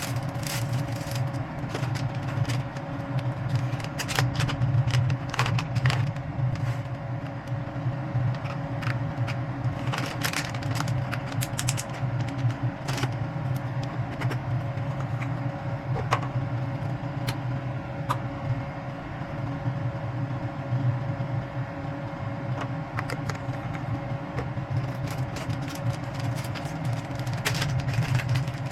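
A steady low mechanical hum with a constant tone, like a fan or appliance motor, under scattered light clicks and taps.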